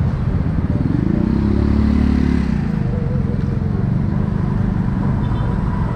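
Motorcycle engine running on the road, rising in pitch as it speeds up about a second in, then easing off after about two and a half seconds.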